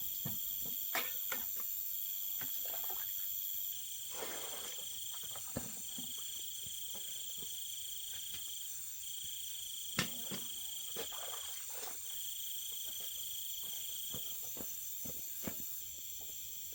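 Night insects, crickets among them, trilling steadily; one sings in repeated bouts of about one and a half seconds with short breaks between. Scattered light knocks and clicks sound here and there.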